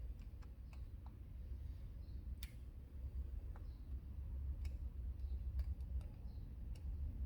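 Scattered light clicks and ticks of small parts being handled during hand work on a carburetor, irregularly spaced over a low steady rumble.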